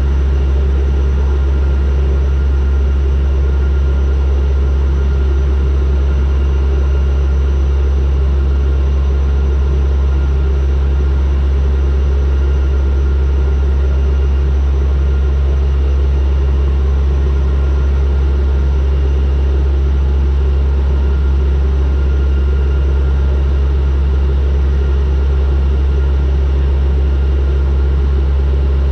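Turboprop airliner in flight, its propellers and engines making a steady deep drone with faint constant higher tones above it.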